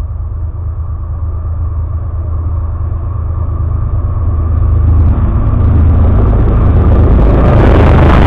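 Rumble of a freight train's diesel locomotive approaching on the adjacent track, growing much louder over the last few seconds as it reaches and passes the camera low on the track. Rail clicks and rattle join in as it nears.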